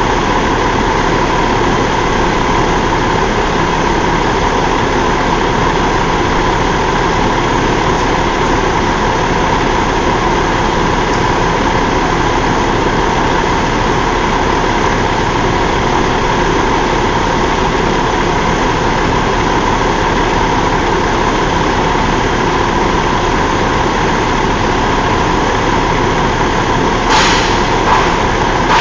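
Cummins ISX15 15-litre inline-six diesel engine idling steadily, with a few sharp clicks near the end.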